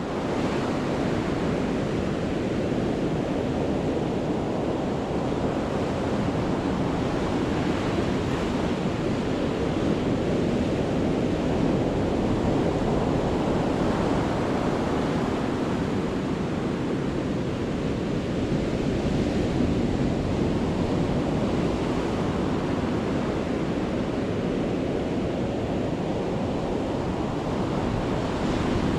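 Heavy sea surf breaking on the shore, a continuous wash of crashing waves that swells and eases every few seconds.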